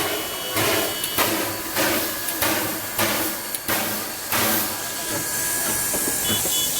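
Steam engine exhaust chuffing in an even beat, a little under two chuffs a second, that stops after about four and a half seconds and gives way to a steady hiss of escaping steam.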